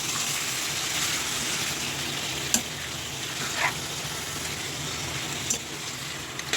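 Chicken pieces frying in hot oil in a kadhai with onions and whole spices, sizzling steadily as they are stirred, with a few sharp clicks of the spoon against the pan.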